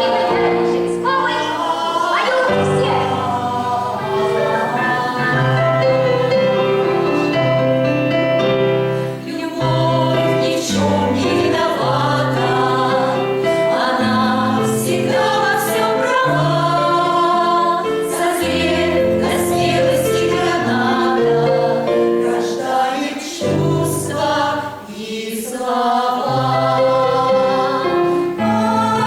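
A choir singing a song with musical accompaniment, several voices holding changing melodic lines over sustained low notes.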